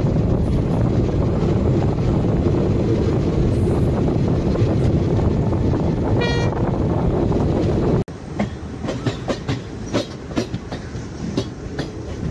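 Passenger train heard from on board at an open door, running with a loud, steady rumble and a brief high-pitched note about six seconds in. After a cut about eight seconds in, it is quieter, with irregular clicks of the wheels over rail joints as the train rolls slowly along a station platform.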